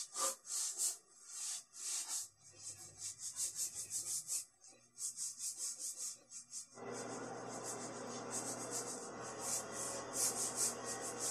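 Bristle paintbrush stroking pre-stain wood conditioner onto bare plywood and pine: quick repeated brushy swishes, several a second. A low steady hum joins underneath about two-thirds of the way through.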